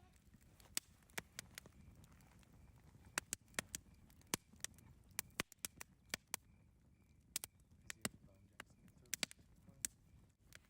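Campfire crackling: irregular sharp pops and snaps, sometimes several in quick succession, over a low steady rumble of the burning wood.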